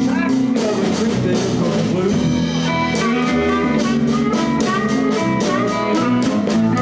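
Live blues band playing an instrumental stretch between vocal lines: electric guitar, bass and drum kit keeping a steady beat. A lead line plays short phrases that bend up in pitch over the second half.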